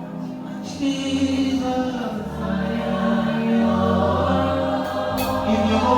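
Gospel music playing: sustained chords with a bass line under voices singing as a choir, the bass growing heavier about five seconds in.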